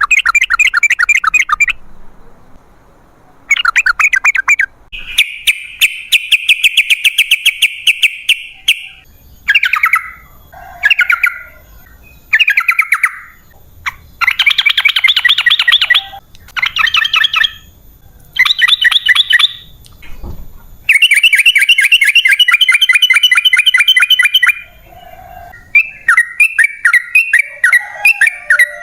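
Yellow-vented bulbul (trucukan) calling in rapid chattering trills. The bursts last one to four seconds, with short pauses between them.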